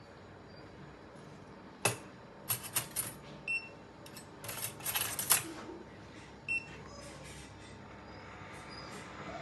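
Metal surgical instruments clinking and clattering: single sharp clinks about two seconds in, a quick cluster around the middle, and a last one near two-thirds of the way through, some ringing briefly.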